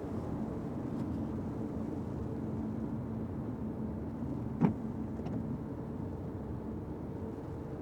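Steady road and engine noise inside a Fiat 500X's cabin while driving in the rain, with a single sharp knock about four and a half seconds in.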